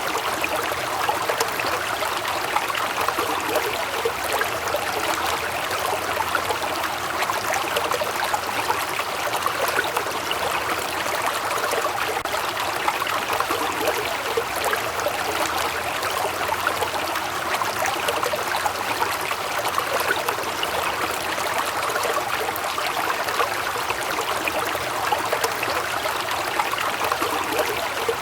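Waterfall splashing and rushing, a steady unbroken sound of falling water.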